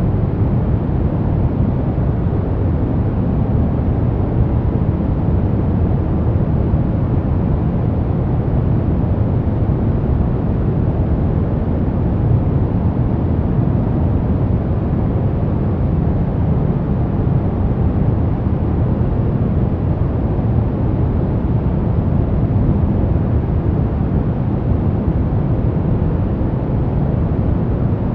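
Steady white-noise sleep sound: an even, unbroken rushing hiss, deep and weighted to the low end with little treble.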